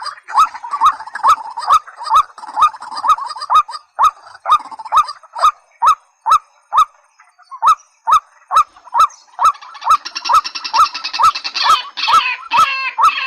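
White-breasted waterhen and watercock calling. There is a steady run of short rising notes, about two a second, with a brief lull partway through. A harsher, fuller stretch of calling sets in late on.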